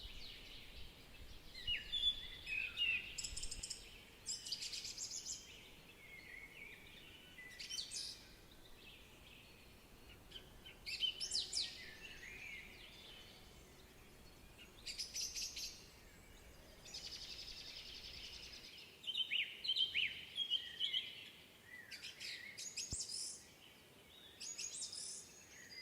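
Small songbirds singing and chirping: short, high-pitched phrases of song, repeated every few seconds with brief pauses between them.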